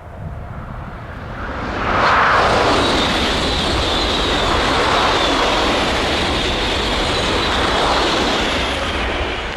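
A train passing close by on the main line. The rush of wheels on rail builds over the first two seconds, stays loud for about seven seconds with a thin high whine riding over it, and begins to fade near the end.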